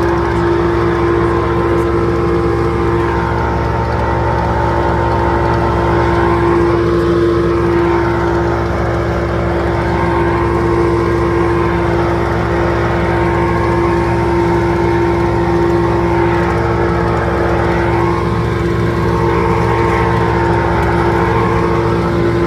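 An engine running steadily at constant speed, with a steady droning hum and a few slow swells in level.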